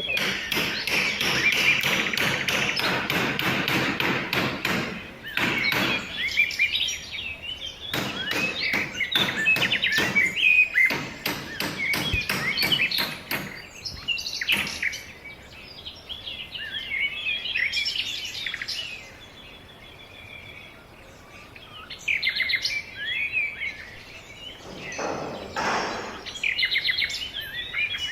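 Small birds chirping and singing repeatedly, with scattered sharp taps and knocks in the first half.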